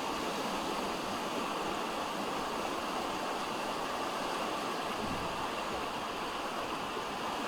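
Steady rushing noise of hurricane wind and water, even and unbroken throughout.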